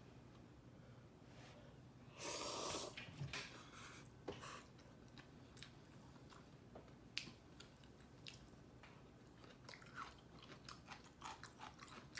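Close-miked chewing: soft, wet mouth clicks and smacks of a person eating. A brief louder, noisier sound comes about two seconds in.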